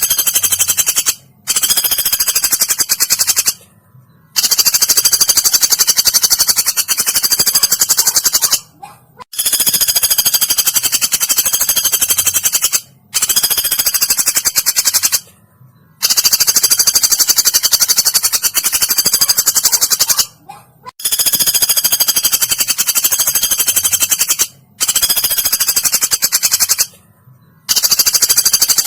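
Woodpecker calls: a rapid, high-pitched rattling trill, repeated in bouts of one to four seconds with short pauses between them.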